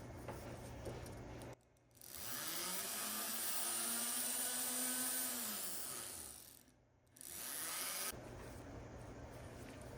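A small electric power tool's motor spinning up, running steadily for about three seconds, then winding down.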